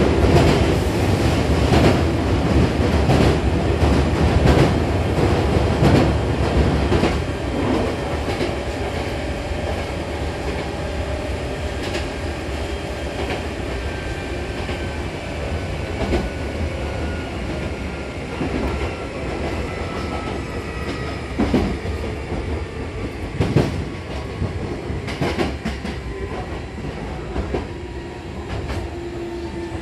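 Hankyu 7000-series electric train running, heard from inside the car by the doors: a steady rumble with scattered rail-joint clacks. A whine from the running gear falls steadily in pitch and the rumble fades as the train slows into a station.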